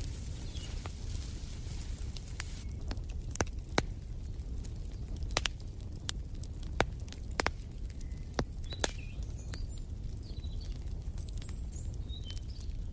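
Wood fire crackling: sharp pops about every second over a steady low rumble, with a few faint bird chirps.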